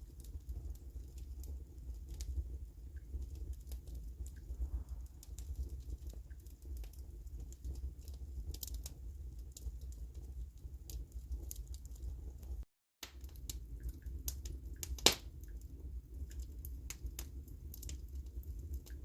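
Wood fire burning in a fireplace, crackling with scattered pops and one louder snap about fifteen seconds in, over a steady low rumble. The sound drops out completely for a moment about thirteen seconds in.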